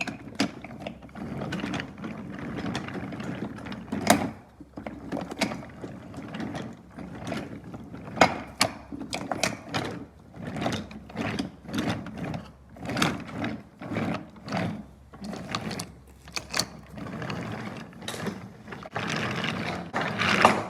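Small toy train engine running along wooden track: a gear motor whirring, broken by many irregular clicks and knocks.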